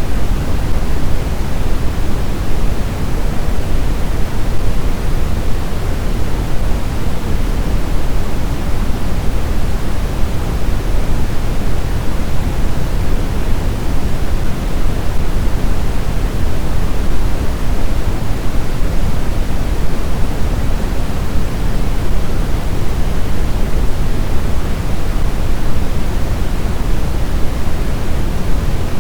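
Blizzard wind blowing steadily: a dense, even rush, heaviest in the low range, with no distinct gusts or lulls.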